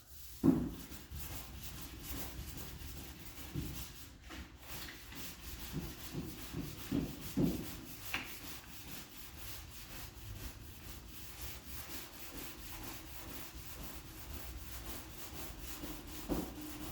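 Hand sanding of 2K high-build primer on a body panel with 400-grit paper on a sanding block: steady back-and-forth rubbing strokes. A sharp knock about half a second in.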